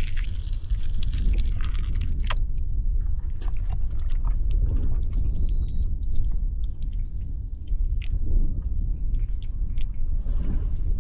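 Steady low rumble of wind on the microphone under a continuous high insect drone, with scattered small clicks and a short burst of hiss about a second in.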